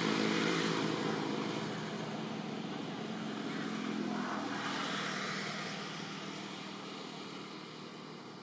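A motor vehicle's engine running with a steady hum and noise, loudest at the start and fading gradually, as if driving away.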